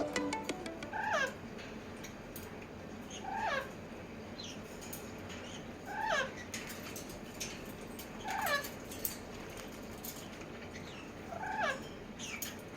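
A pet parrot calling over and over: five similar short calls, each falling in pitch, about two and a half seconds apart, with softer chirps and clicks between them.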